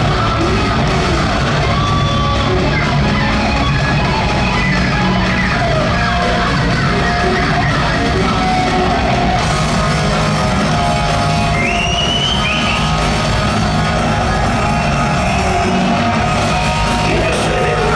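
Heavy metal band playing live in a large hall: loud, steady distorted electric guitar and drums, with some shouted vocals.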